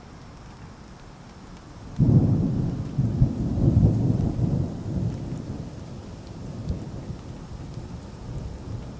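A thunderclap breaks suddenly about two seconds in and rolls on as a low rumble, dying away slowly over several seconds, over steady rain.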